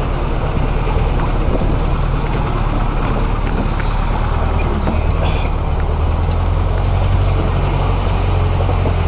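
Waterfall roaring steadily, a loud even rush of falling water with a deep rumble underneath.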